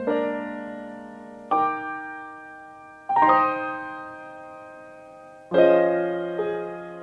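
Background solo piano music: slow, sustained chords struck about every second and a half, each left to ring and fade.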